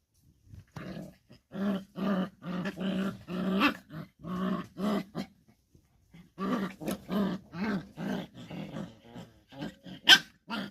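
A dog growling and grumbling in a string of short growls, about three a second, in two runs with a pause between, and a sharp, high yelp near the end.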